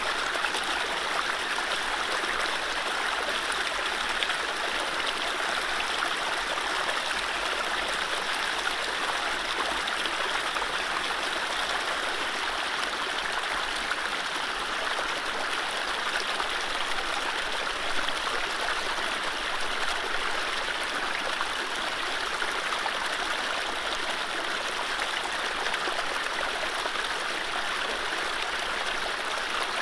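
Mountain stream running steadily over low rapids: a continuous, even rush of water.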